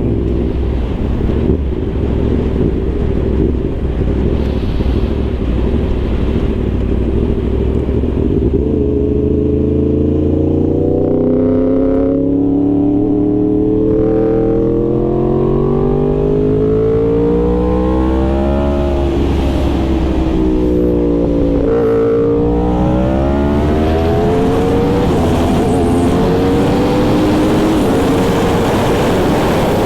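Yamaha R1 sport bike's inline-four engine under way: a steady drone for several seconds, then its pitch climbs slowly for about ten seconds as it accelerates, drops at a gear change, climbs again and drops once more before settling.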